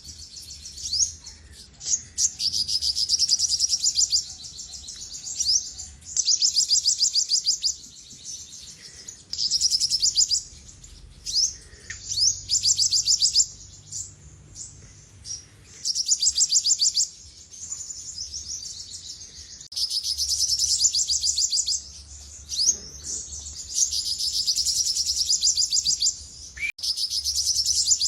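Olive-backed sunbird singing: a run of fast, high-pitched trilled phrases, each lasting a second or two, repeated about eight times with short gaps filled by single sharp chips.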